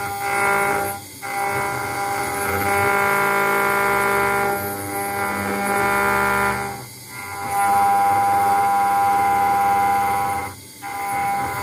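CNC router engraving machine milling a brass plate with a 1 mm ball-nose bit. Its spindle and drive motors give a steady whine, with short dips about a second in, around seven seconds and near the end.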